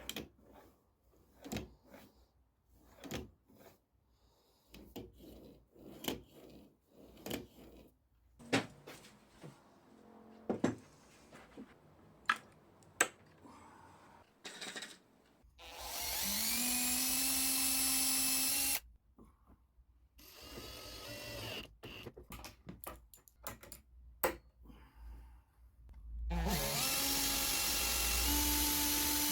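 Power drill run twice, each time for about three seconds, its pitch rising as it spins up and then holding steady. Before the first run come a series of scattered knocks and clicks of workshop handling.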